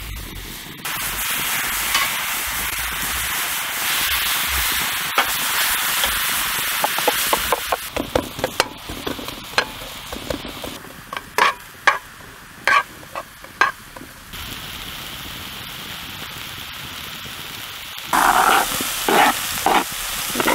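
Food frying on a camp barbecue hotplate: a steady sizzle, then a run of quick clicks and several sharper knocks and scrapes of a cooking utensil working the food, with abrupt changes in the sound several times, then more sizzling with knocks near the end.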